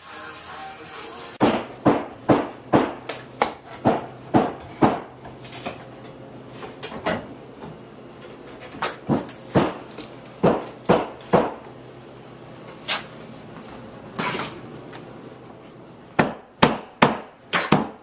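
Hammer blows on wood, in quick runs of sharp knocks, about two or three a second, broken by short pauses, in a small room.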